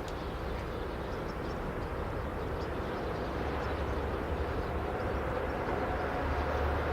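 A double-headed pair of DD51 diesel locomotives hauling a tank-car freight train, a steady low rumble that grows slowly louder as the train comes closer.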